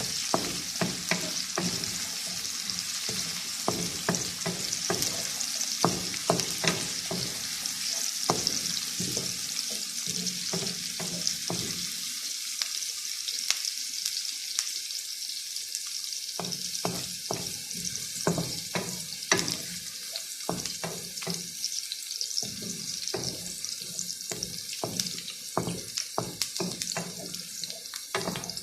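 Chopped onions sautéing in hot cooking oil in a pan, sizzling steadily, with a spatula stirring and knocking against the pan at irregular intervals.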